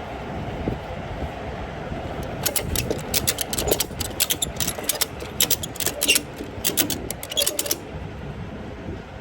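A steady low rumble, with a quick irregular run of sharp clicks starting a couple of seconds in and lasting about five seconds.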